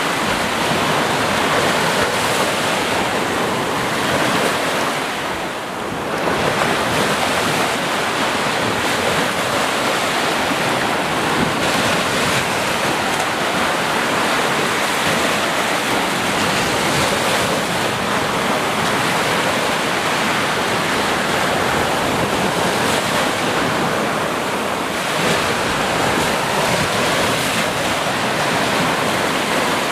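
Ocean surf: waves breaking and washing in a continuous dense rush, easing briefly about five seconds in before the next wave builds.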